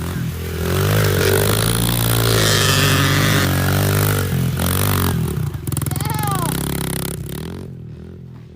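Pit bike engine revving hard under load, its pitch rising and falling with the throttle. It is loudest in the first few seconds, then fades over the last few.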